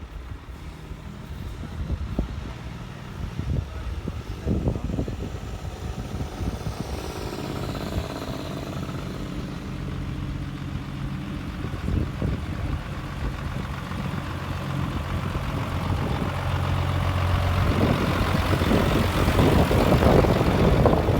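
Heavy truck diesel engine running, growing louder and rougher toward the end as it draws closer.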